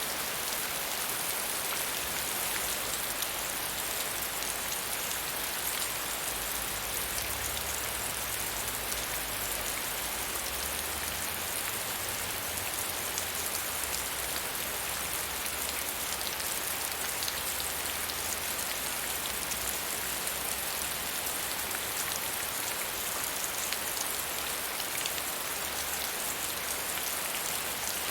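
Steady rain falling in a forest, a dense even hiss of drops striking leaves and the ground, with many small distinct drop ticks.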